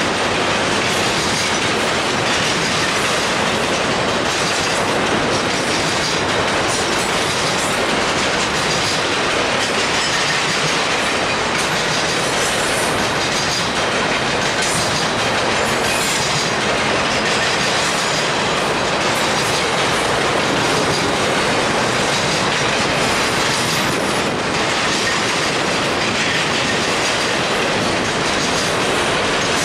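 Double-stack intermodal container well cars of a freight train rolling past close by: a steady, loud noise of steel wheels on rail that does not let up.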